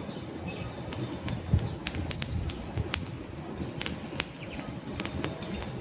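Wood campfire crackling: sharp, irregular pops and snaps of burning logs over a low, steady rush of flames.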